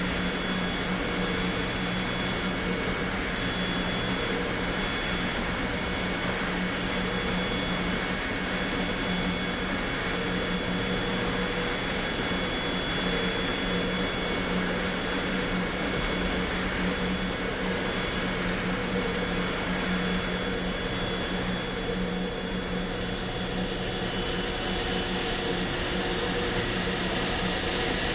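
Steady industrial machinery drone from a waste incinerator, a constant low hum under a wash of rushing noise, with a few thin high tones.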